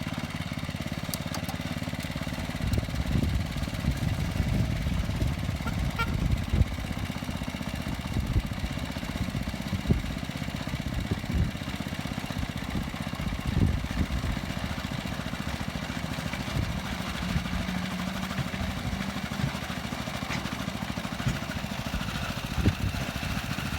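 Small engine of a Scamp-type 7¼-inch gauge miniature locomotive running steadily as it pulls the train along the track, with occasional short knocks.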